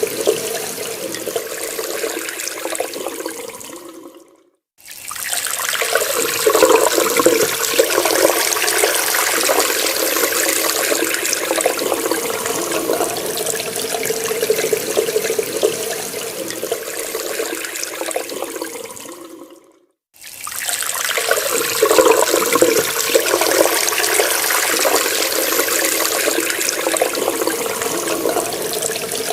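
Water running steadily from a tap into a sink, a continuous splashing rush. It fades out to silence twice, about four seconds in and again about twenty seconds in, and each time comes back within half a second.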